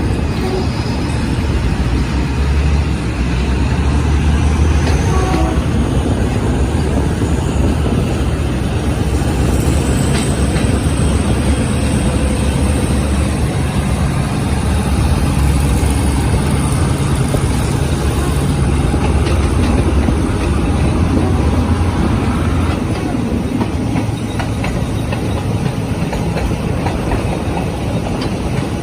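Diesel train running past close by: a steady low engine rumble with the noise of wheels on the rails. A thin high whine rises slowly in pitch over the first ten seconds, and short clicks from the wheels come through later on.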